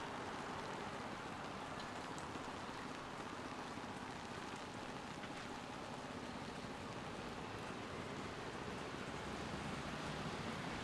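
Steady rain falling as a soft, even hiss, with a few faint scattered drip ticks.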